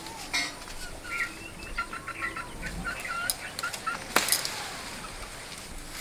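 Short bird calls repeated in a quick cluster, with a single sharp crack about four seconds in as a guava is pulled from its branch.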